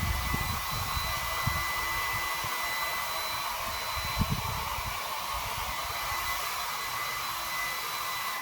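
Heat gun blowing steadily with a faint high whine, as used to heat-shrink window tint film; a few dull low knocks sound through it. It cuts off suddenly at the end.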